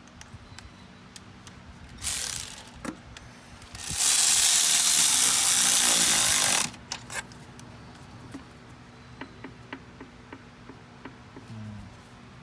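A power tool runs in two goes on the engine job: a short burst about two seconds in, then a longer run of nearly three seconds that winds down as it stops. Scattered small clicks of hand tools follow.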